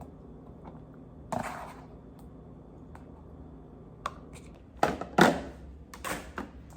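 Groceries and plastic containers being handled and set down: a few short knocks and rustles, the loudest two about five seconds in.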